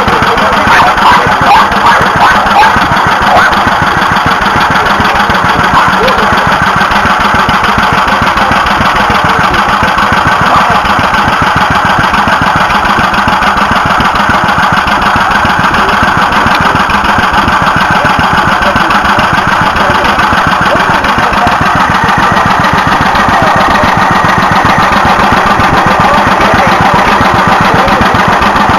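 Stationary engine running steadily with a fast, even beat, a few sharper knocks in the first few seconds.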